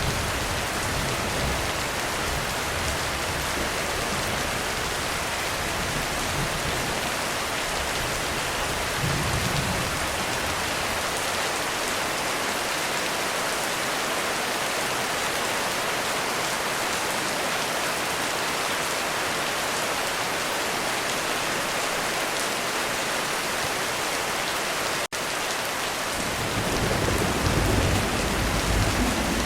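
Heavy rain falling steadily on a roof. Low thunder rumbles at the start and briefly about nine seconds in, then builds again near the end.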